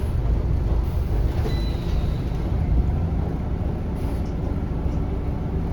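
Scania L94UB bus running along, heard from inside the cabin: a steady low engine and road rumble with no sharp events.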